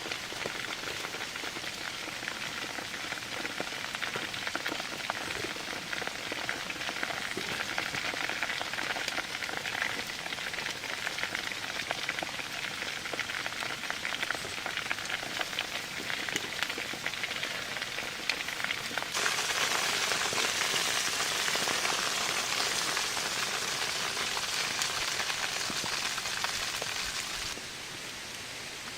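Heavy rain falling, a dense hiss of many small drop impacts. About two-thirds of the way through it turns abruptly louder and brighter, then falls back just as abruptly near the end.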